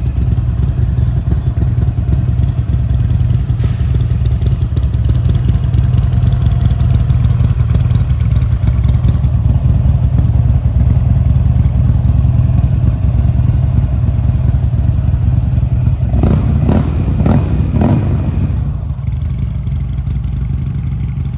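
A Buell 984 cc fuel-injected V-twin with an aftermarket carbon-fibre muffler, running steadily at idle. About three-quarters of the way through come four short, louder bursts in quick succession.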